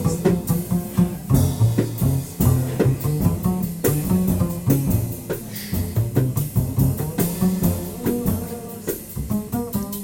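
Instrumental jazz-style band music with drum kit and bass, a steady beat of drum and cymbal strikes over a moving bass line.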